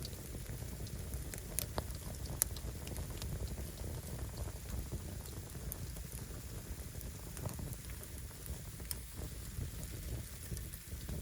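Firewood burning in an open fire: a steady low rush with sparse sharp crackles and pops, a few of them standing out about one and a half, two and a half and nine seconds in.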